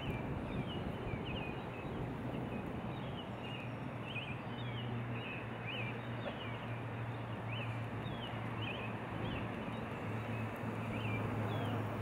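Birds chirping over and over in short quick calls, over a steady low hum and a rushing background noise.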